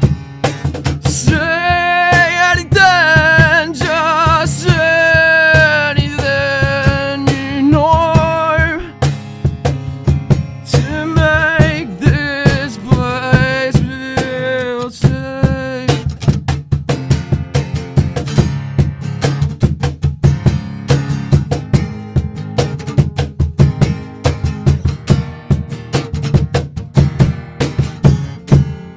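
Live acoustic band music: strummed acoustic guitar and drums, with a sung vocal line for about the first half. The voice then drops out and guitar and drums carry on to the song's final stop near the end.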